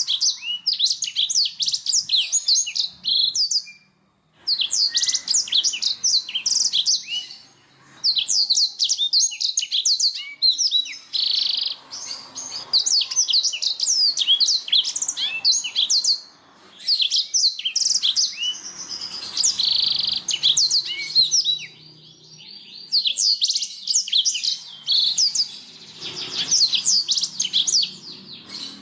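Canary singing long runs of rapid trills and chirps, in phrases broken by a few short pauses.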